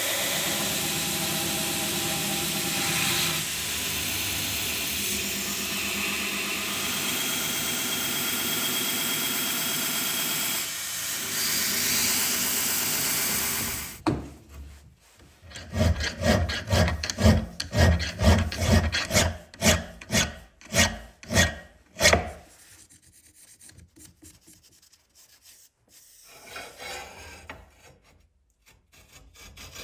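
A belt grinder running steadily against the leaf-spring steel while the blade is shaped, stopping abruptly about halfway. Then about a dozen rhythmic hand-tool strokes on the steel, roughly two a second, cutting the choil, followed by faint scraping.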